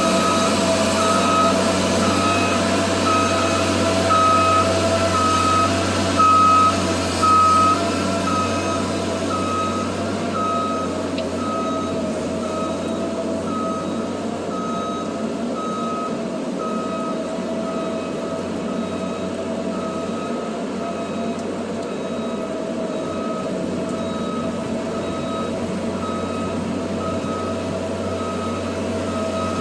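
Truck backup alarm beeping steadily, about once a second, over a truck engine running.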